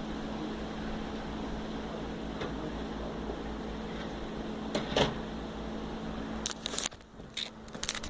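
Steady low hum with a constant tone, broken by a few faint clicks. Near the end comes a quick run of sharp knocks and clatter, and the hum cuts out.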